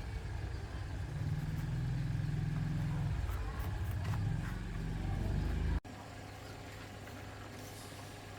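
An engine running with a deep, pulsing rumble that cuts off abruptly about six seconds in, leaving a quieter steady hum.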